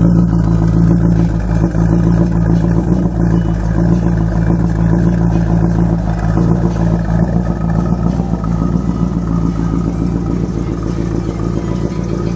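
De Tomaso Longchamp's Ford 351 Cleveland V8 running steadily, a little quieter toward the end.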